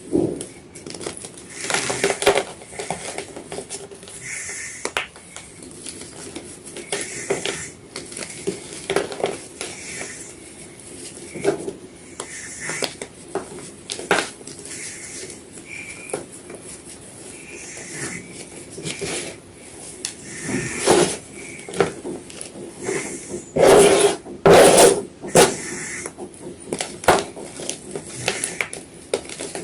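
Blocks of white gym chalk being crunched and crumbled in a run of irregular sharp crackles, with a louder cluster of crunches near the end.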